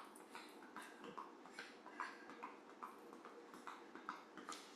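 Faint, quick light taps, about two or three a second, over near-silent room tone.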